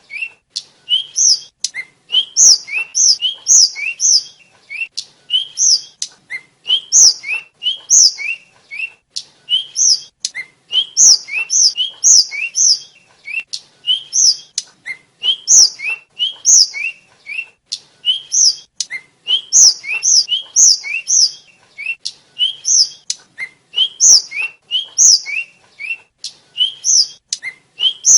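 A tledekan (sikatan flycatcher) singing a fast, unbroken run of short, high, sliding whistled notes, several a second, with sharp clicks between them.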